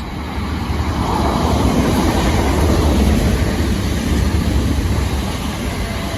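A pair of South Western Railway Class 455 electric multiple units passing, a rumbling roll of wheels on track that grows louder to a peak about halfway through and then fades as the train goes by.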